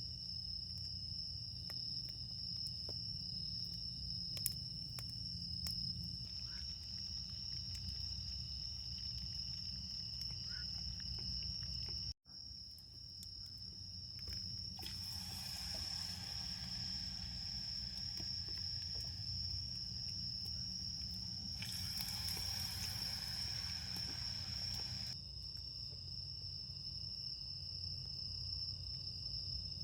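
Autumn night insects trilling in a steady, continuous high tone, with scattered small crackles from a wood bonfire. Twice a rushing hiss swells for a few seconds over them.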